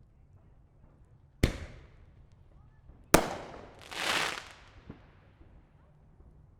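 Fireworks going off: two sharp bangs about a second and a half apart, each ringing off with a tail, the second one followed about a second later by a half-second swell of noise that fades away.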